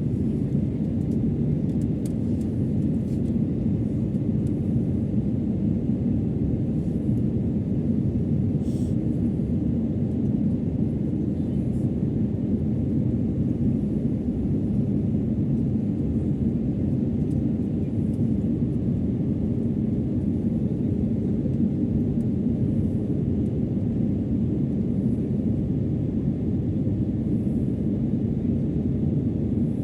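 Steady low rumble of an airliner cabin in flight: engine and airflow drone, unchanging throughout.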